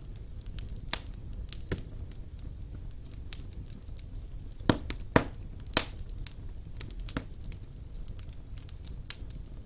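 Wood fire in a fireplace crackling, with irregular sharp pops and three louder snaps a little after the middle, over a steady low rumble of the burning logs.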